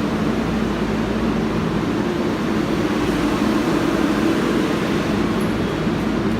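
Steady rumble of a New York City Subway R188 car running on the 7 line, heard from inside the car.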